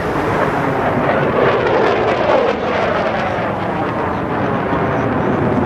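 Jet engine noise from a Thunderbirds F-16 fighter flying past: a loud, steady rush whose tone shifts and sweeps as the aircraft moves.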